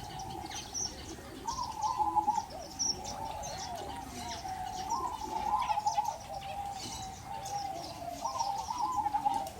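Several caged birds calling: a low warbling, cooing phrase about a second long repeats roughly every three seconds, with many short high chirps scattered around it.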